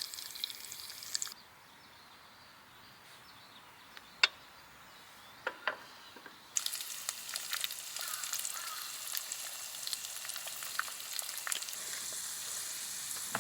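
Steady sizzling with small crackles. It cuts off suddenly about a second in, leaving a quieter stretch with a few sharp pops. It returns just as suddenly about six and a half seconds in.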